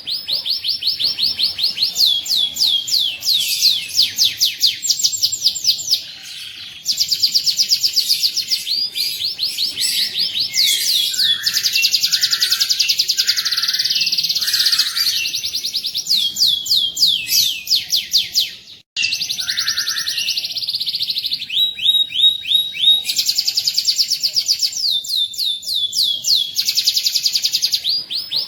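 Domestic canary singing a long song of fast rolling trills, one rapid run of repeated high notes after another, with a few lower chirps in the middle. The song breaks off briefly twice.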